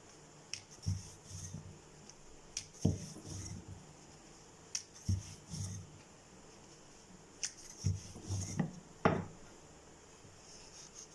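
Rolling pin rolling out thin khakhra dough: a series of rumbling strokes, each with a sharp knock, every second or two.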